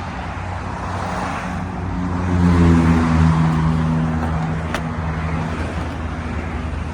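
A motor vehicle's engine humming low and steady over traffic noise. It swells louder about two to three seconds in and then eases off. A single sharp tick comes near the five-second mark.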